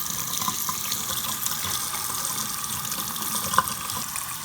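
Faucet running a steady stream of hot water from an instant water heater, with one short click about three and a half seconds in.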